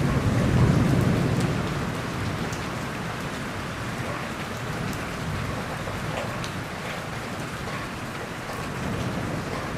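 Steady heavy rain falling, with scattered drops ticking, and the tail of a low thunder rumble dying away over the first couple of seconds.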